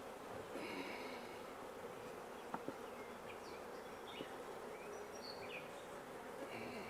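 A crowd of honey bees buzzing steadily around an opened hive, with two sharp clicks about two and a half seconds in.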